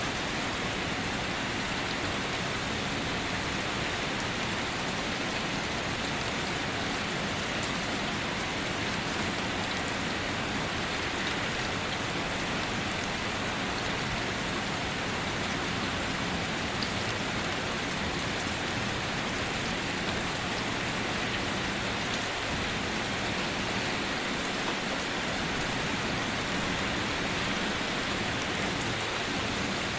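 Steady night rain falling, an even hiss of many drops with no let-up.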